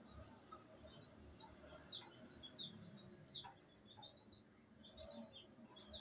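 Faint chirping of birds: short high notes repeated throughout, with a few quick downward-sliding calls.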